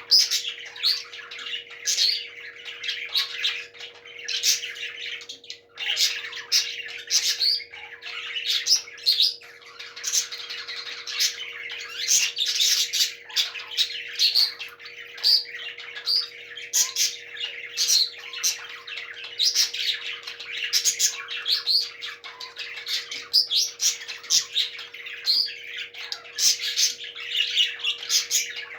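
Parrots chirping and squawking in many short, overlapping calls, over a steady low hum.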